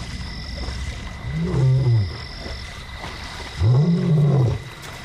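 Male lion calling: two long, moaning roars about two seconds apart, each rising and then falling in pitch, made to contact a lost companion.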